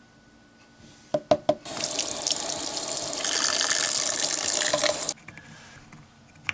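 A few sharp clicks, then a kitchen faucet running for about three and a half seconds before it is shut off abruptly.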